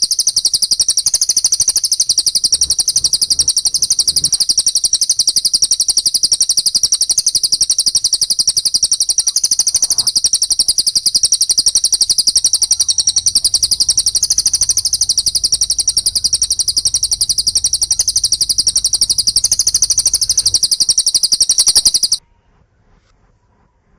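Recorded small songbird giving a long, unbroken run of rapid, high-pitched chirps for bird-song training. It cuts off suddenly near the end.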